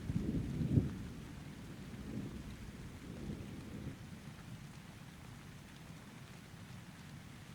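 A thunder rumble, loudest in the first second, dies away over about four seconds above steady rain.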